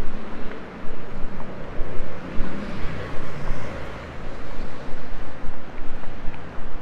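City street ambience: road traffic passing, with a swell about halfway through as a vehicle goes by, and wind buffeting the microphone in an uneven low rumble.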